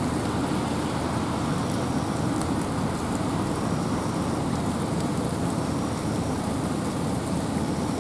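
Steady rain and wind in a forest: an even, low-weighted rushing noise with faint scattered drip ticks on top.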